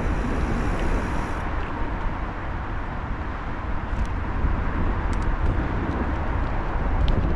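Wind buffeting the microphone on a moving bicycle: a steady low rumble and rush, with a few faint ticks.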